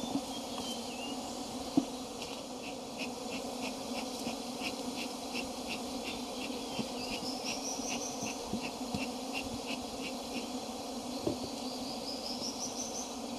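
Honey bees buzzing in a steady hum. Over it, a high chirping pulses about three times a second for most of the stretch, and two quick rising runs of higher chirps come in the middle and near the end; a single sharp click sounds about two seconds in.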